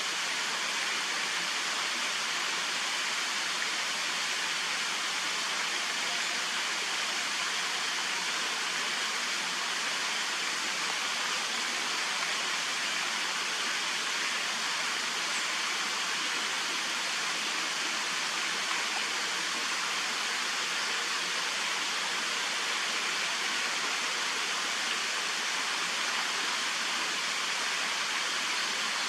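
Steady rush of flowing water, like a stream or small weir, an even hiss with no breaks and no other sound standing out.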